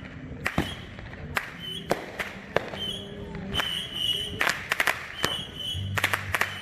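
Consumer fireworks going off: a string of sharp bangs and pops at irregular intervals, bunching into rapid clusters about four and a half seconds in and again near the end.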